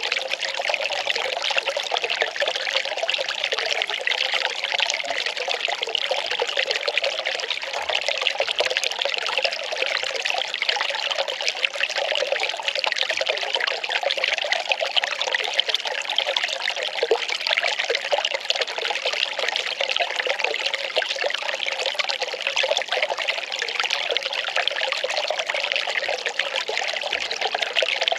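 Well water pouring and trickling in a steady, unbroken stream.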